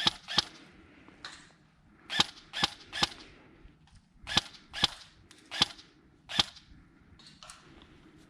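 Airsoft guns firing single shots: about a dozen sharp pops at uneven intervals, several in quick pairs or threes.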